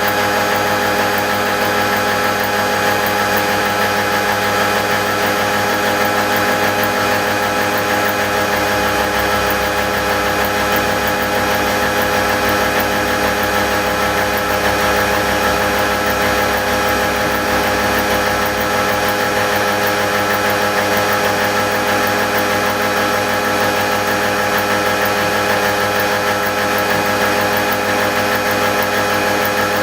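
CNC machine milling gear teeth with an indexable gear-milling cutter: steady machining noise with several constant tones. A low hum rises about 8 seconds in and drops back about 19 seconds in.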